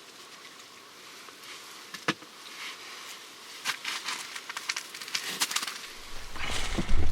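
Campfire crackling, with scattered sharp snaps and pops, one louder snap about two seconds in. A low rumble comes in near the end.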